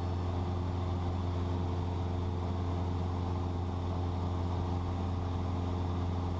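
Cessna 172's engine and propeller droning steadily in cruise, heard inside the cabin: an even hum with a strong low tone and several steady higher tones above it.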